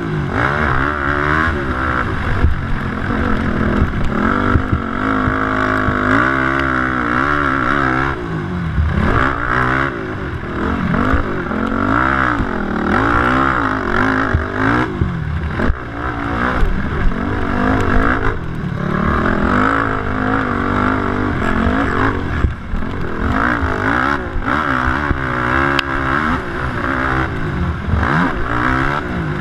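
Racing quad engines revving hard, their pitch climbing and dropping again and again as the ATVs accelerate, shift and back off around the track.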